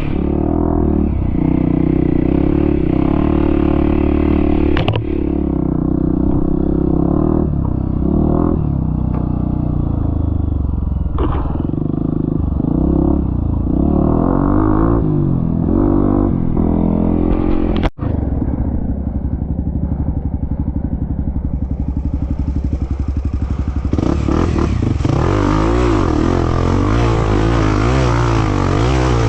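Trail motorcycle engine running under way, its revs rising and falling, with a few short knocks and a sudden brief break about two-thirds of the way through.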